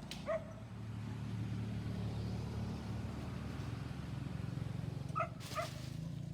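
A dog gives three short barks: one just after the start, then two in quick succession about five seconds in, over a steady low hum.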